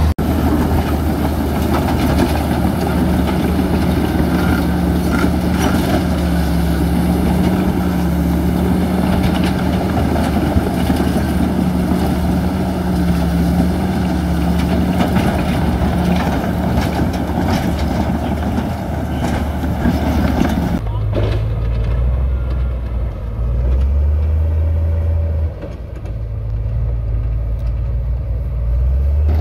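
Heavy diesel engine of earth-moving machinery running steadily with a deep drone. About two-thirds of the way through the sound changes abruptly to a lower, duller engine drone.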